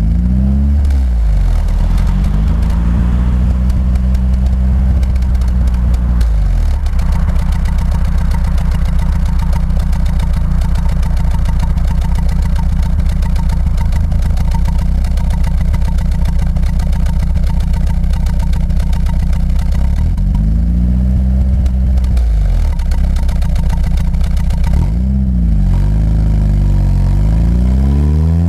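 Alfa Romeo 155's 2.0 8-valve Twin Spark four-cylinder engine idling at a standstill, revved up several times, once held for a few seconds. It revs up as the car pulls away near the end.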